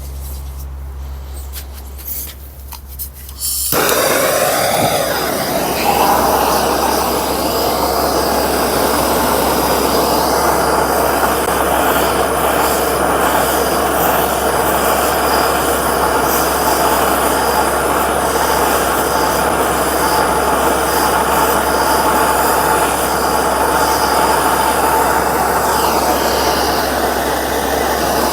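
A few clicks, then from about four seconds in the steady rushing hiss of a heating tool at work, warming a gearbox gear so it can be pulled off its shaft.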